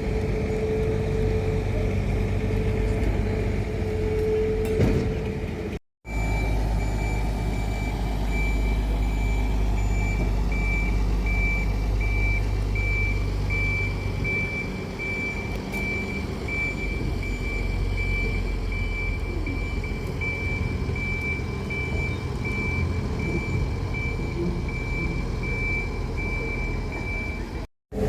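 A rapid, high-pitched warning beeper sounds continuously over the low steady hum of a moving vehicle's motors or equipment, as trams are shunted in a depot. The beeping starts after a brief break about six seconds in and stops with another break near the end.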